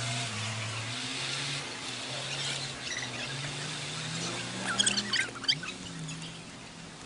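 A quick burst of small birds chirping about five seconds in, over a steady hiss and a low hum that shifts up and down in pitch.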